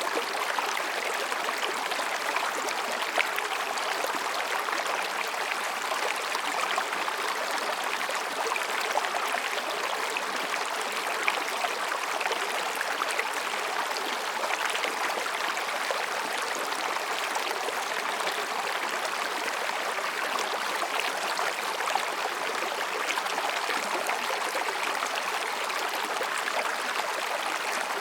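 Mountain stream babbling over and between rocks: a steady rush of water flecked with small splashes and gurgles.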